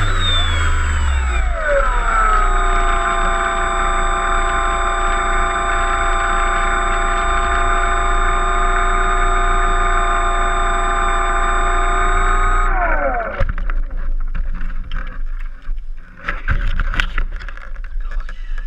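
Electric motor and propeller of a HobbyKing Cessna 182 RC model seaplane whining. It throttles down from high to a steady lower pitch over the first two seconds, holds steady, then winds down and stops about 13 seconds in, leaving irregular rustling noise.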